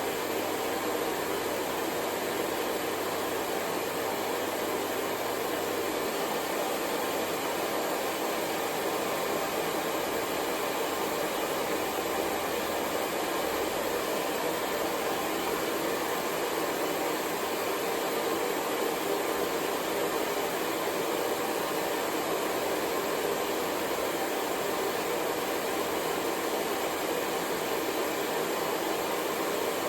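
Hair dryer running continuously, a steady, unchanging blowing hiss used as white noise for sleep.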